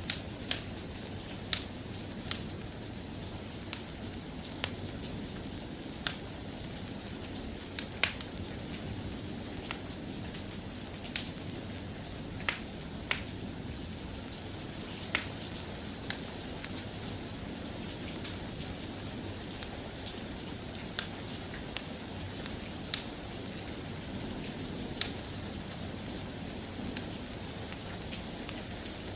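Steady, soft rain, with scattered sharp ticks and pops about every second or two.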